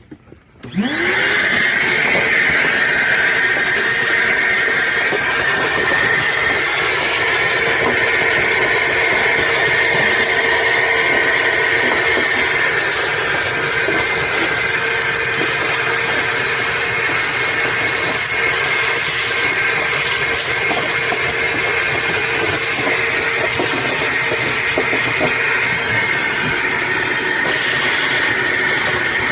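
Shop vacuum switched on, its motor spinning up with a rising whine about a second in, then running steadily with a high whine.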